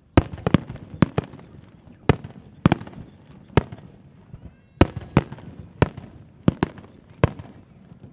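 Aerial firework shells bursting in an irregular run of sharp bangs, about a dozen in eight seconds, some in quick pairs, each trailing off in a brief echo.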